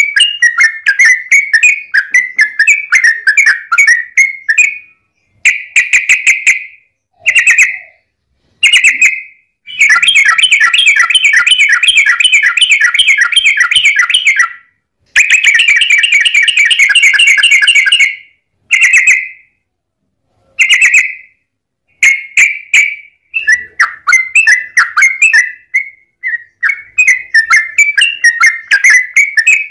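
Yellow-vented bulbul (trucukan) song: short bubbly, chattering phrases with brief pauses, and two long unbroken runs of rapid repeated notes (the 'ropel panjang' rattle) starting about 10 and 15 seconds in, each lasting three to four seconds.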